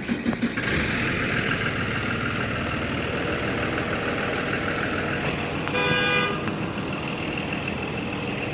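School bus engines running steadily, with one short horn honk about six seconds in.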